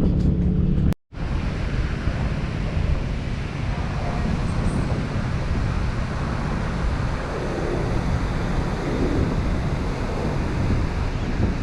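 Wind buffeting the microphone over the wash of surf: a steady rumbling noise with no distinct events. It is preceded by about a second of a loud, steady droning tone that cuts off abruptly.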